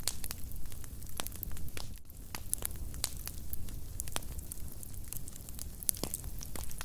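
Fireplace fire crackling, with many irregular sharp pops and snaps over a steady low rumble of the flames.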